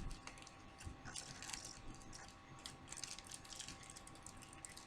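Faint scattered rustles and light clicks from makeup products being handled.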